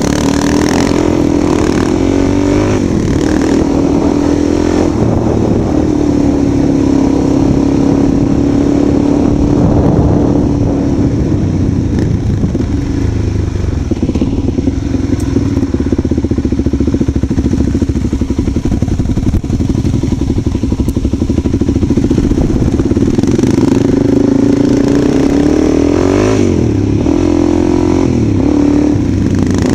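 Motorcycle engine running under way, its pitch rising and falling several times as the bike speeds up and slows down.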